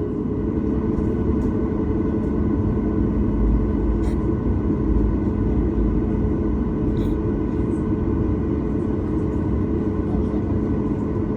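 Boeing 737 MAX 9's CFM LEAP-1B turbofan engines at takeoff thrust, heard from inside the cabin: a loud, steady rumble with a constant engine hum over it.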